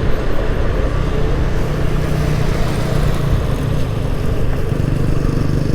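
Wind rush and road noise while riding a Honda Activa 5G scooter at speed, with a steady low engine hum underneath.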